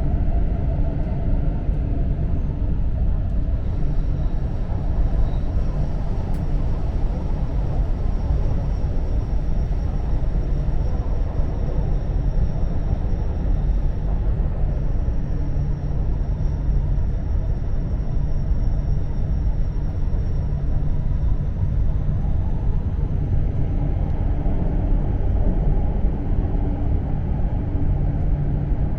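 Cabin noise inside the lower deck of an E4 series double-decker Shinkansen: a steady low rumble of the running train, with a faint high whine over it.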